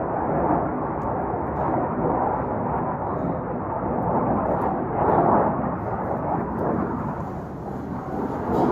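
Fighter jet engines heard from the ground as a steady, thunder-like rumble, swelling and easing as the jets pass high overhead and out of sight in the clouds.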